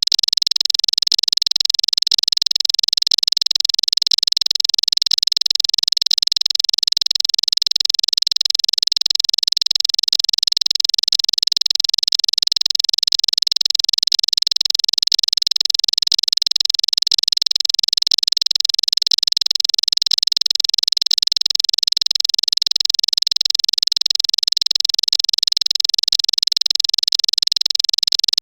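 Bar-winged prinia (ciblek) giving its 'cetrekan' chatter as one unbroken, high-pitched, very fast trill that holds the same pitch and loudness throughout, the looped call of a lure track meant to set caged ciblek singing.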